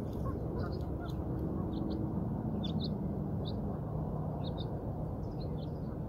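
Small birds chirping, short high notes scattered every half second or so, over a steady low outdoor rumble with a faint low hum in the first few seconds.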